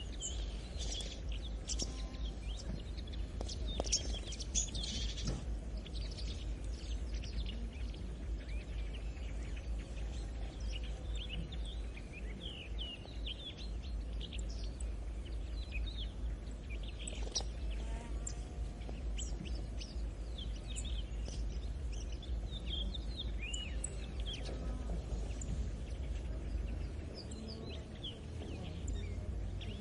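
Many small birds chirping and singing over a steady low rumble.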